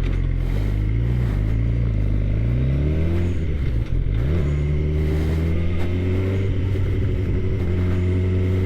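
2013 Suzuki GSX-R 600's inline-four engine pulling under throttle, its pitch rising, then a brief dip as the rider shifts up about four seconds in, after which it runs steadily and climbs slowly again.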